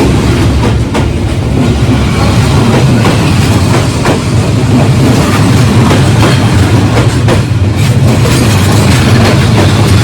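A train passing close by: a steady low rumble with the wheels clattering irregularly over the rails.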